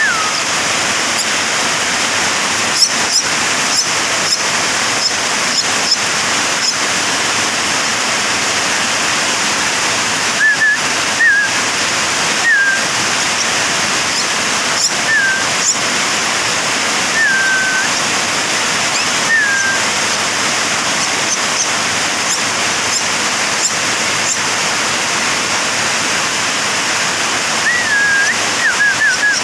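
Javan myna chick calling: short whistled notes that slide downward, repeated every second or two in bursts, with a cluster near the end. Under them runs a loud, steady rushing hiss, and fainter high chirps come through now and then.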